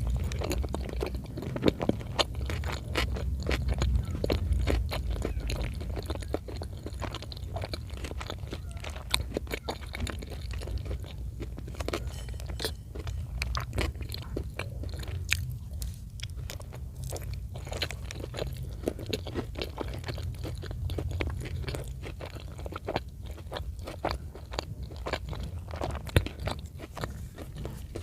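Close-miked chewing of chicken in cream sauce, with many short wet clicks and smacks of the mouth.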